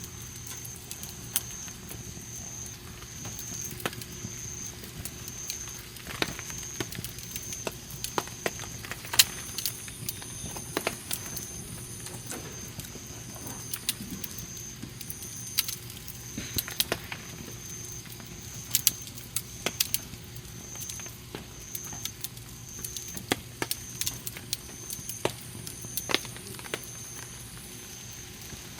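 Wood campfire crackling, with sharp pops at irregular intervals. A high chirp repeats evenly behind it.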